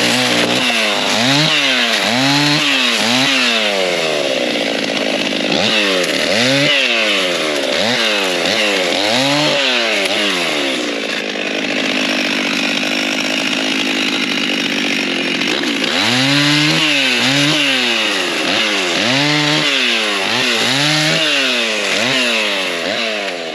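Two-stroke chainsaw revving up and falling back in quick repeated bursts, about once a second, as it cuts wood. About halfway through it runs steadier under load for a few seconds, then the repeated revving resumes.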